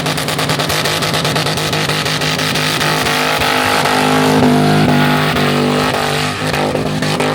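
LS V8 engine in a burnout car held at steady high revs, its note staying level and stepping up slightly about three seconds in.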